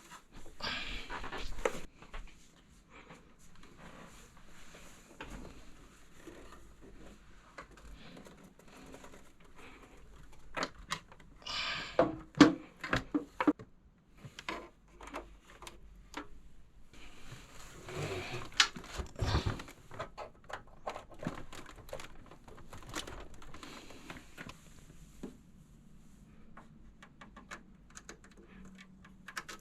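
Close handling noise of computer hardware being worked on: scattered clicks, knocks and rustling or scraping in several bursts, the loudest about a third and two-thirds of the way through. A faint steady low hum comes in near the end.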